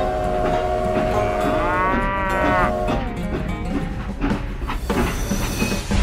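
Cow mooing: a long drawn-out call that swells up and falls back about two seconds in, over a toy train running on its track. A sudden crash of noise comes near the end.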